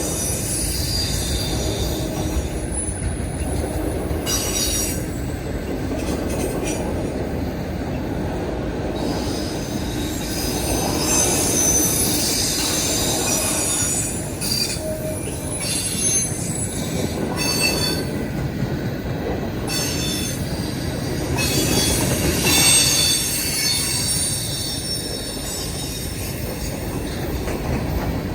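Freight cars of a manifest train rolling past on steel rails: a steady heavy rumble of wheels, with high-pitched wheel squeal rising and fading several times.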